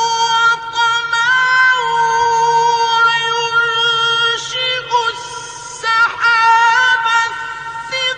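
A male Quran reciter's high voice in melodic tajwid recitation, holding long drawn-out notes that slide slowly between pitches. There is a short break for breath about five seconds in.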